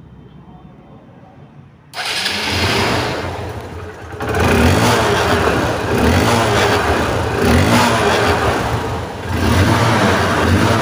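Hero Hunk motorcycle's single-cylinder engine starting up about two seconds in, then running and being revved, swelling louder twice. The seller calls it a healthy-sounding engine, '100 out of 100'.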